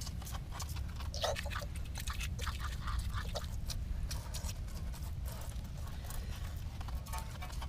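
Car wheel being scrubbed and rinsed: irregular scraping, squeaks and water spatter in short sharp bits over a steady low rumble.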